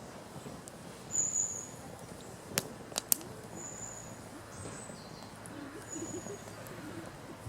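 Quiet outdoor ambience with several short, high-pitched bird calls, the loudest about a second in, and three sharp clicks a little before the middle.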